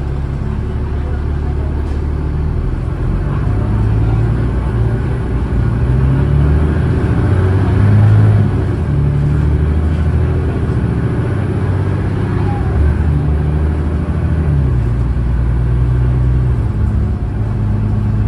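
Cummins ISLe diesel engine of an Alexander Dennis Enviro500 bus pulling hard under acceleration, its note climbing and then dropping back as the ZF six-speed automatic gearbox shifts. It is loudest about eight seconds in, dips, and builds again.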